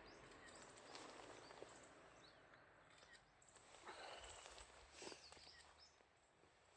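Near silence: faint outdoor ambience with a few short high bird chirps and a few soft steps or rustles.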